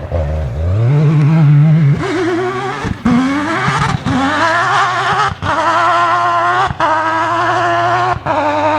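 Mazda rotary engine of a Peugeot 205 rally prototype accelerating hard through the gears, its note climbing and cutting out briefly at each of five quick upshifts.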